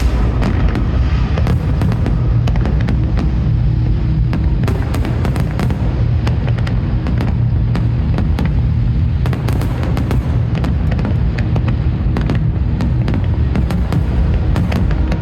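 Aerial fireworks going off continuously in rapid, irregular bangs and crackles, with deep booms underneath. Music plays along with the display.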